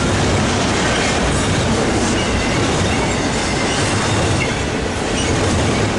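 Cars of a long BNSF intermodal freight train rolling past at close range, the wheels clattering steadily over the rail, with faint short wheel squeals now and then.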